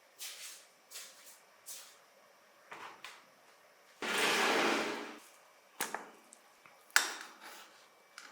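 Small hard parts being handled: a series of light clicks and short scrapes, a rushing noise lasting about a second about four seconds in, and two sharp clicks later on.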